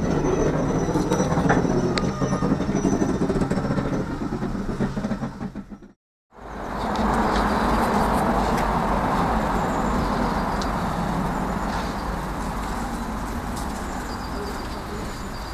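Heritage railway train running slowly along the track, heard from the carriage as a steady low rumble with a few sharp clicks. It cuts off suddenly about six seconds in, and a steady rushing noise follows.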